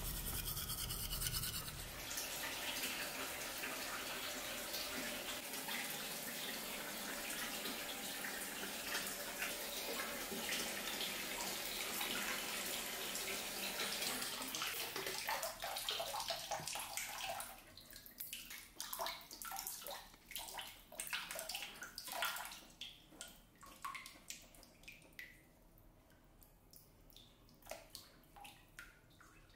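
Water running steadily, like a tap or shower, that stops about halfway through, followed by scattered drips, splashes and small knocks.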